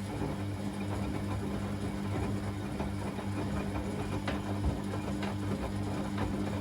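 Beko WA 1050 washing machine running a motor in a steady hum for several seconds, over a rough rushing noise with a few faint clicks; it starts just before and cuts off just after this stretch.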